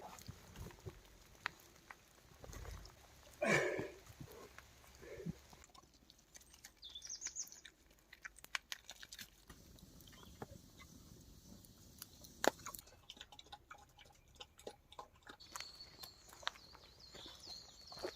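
Wild boar chewing and rooting about, with scattered clicks and rustles and one short louder call about three and a half seconds in.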